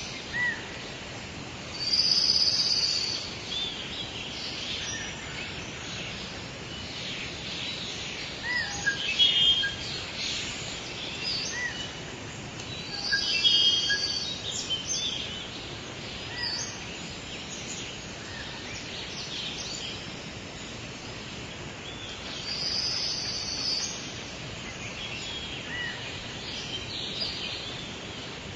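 Several birds chirping and singing over a steady background hiss, with one louder song phrase that comes back about every ten seconds.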